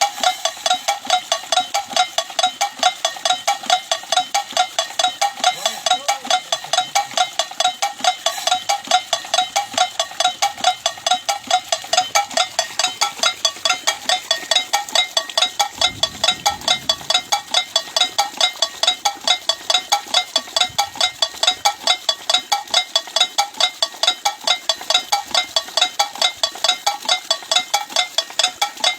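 Bird and rat scaring device for a rice field, sounding a harsh pitched tone that pulses evenly at about three to four times a second.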